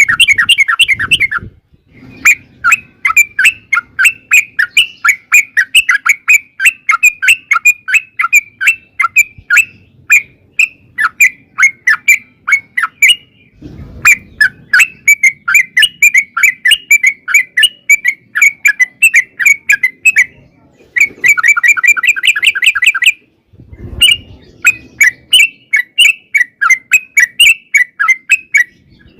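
Trucukan (yellow-vented bulbul) singing its long rapid 'ropel' song: runs of quick, chirpy, bubbling notes, several a second, in three long stretches with short breaks between them. There is a brief low thump at the start of the second and third runs.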